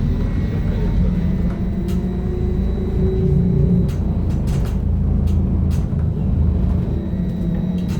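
Inside a BKM-321 trolleybus under way: a steady low rumble of the ride, with a faint whine that rises and falls in pitch and a few sharp clicks and rattles.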